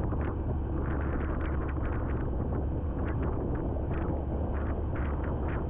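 Yamaha FZ motorcycle running steadily at highway speed, with wind rumble on the rider's microphone and scattered light ticks of the first raindrops hitting.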